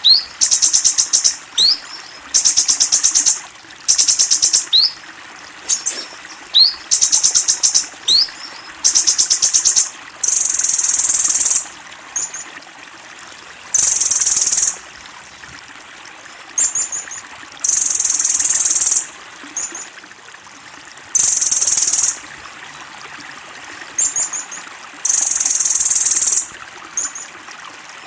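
Kolibri ninja sunbird singing its 'tembakan', rapid high bursts of song about a second long every couple of seconds, with short rising chip notes between them. The first bursts are fast rattling trills; from about ten seconds in they become denser, buzzier blocks.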